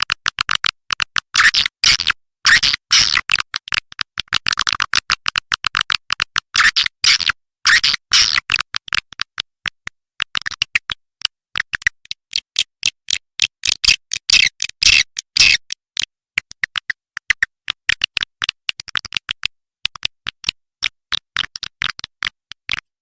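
Swiftlet call recording used as a lure sound for swiftlet houses: rapid, irregular trains of sharp clicks and chirps, many a second, with short breaks between runs.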